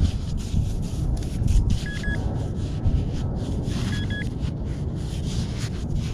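Two short electronic beeps from a metal detector, about two seconds apart, over steady wind rumble on the microphone.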